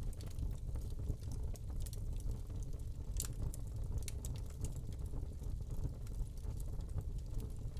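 Wood log fire crackling in a fireplace: irregular small snaps over a steady low rumble, with one sharper pop about three seconds in.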